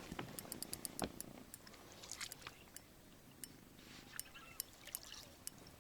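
Water dripping and trickling softly, with many scattered light clicks and a few small knocks. It is the sound of a freshly landed pike and tackle being handled in a boat.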